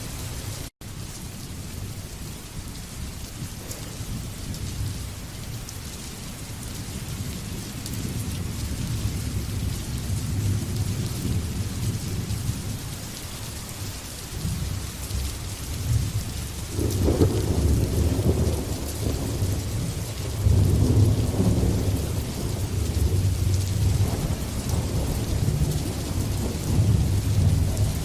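Thunderstorm: steady heavy rain with rolling thunder rumbling low underneath, the thunder growing louder in the second half with several strong peals. A brief dropout in the sound about a second in.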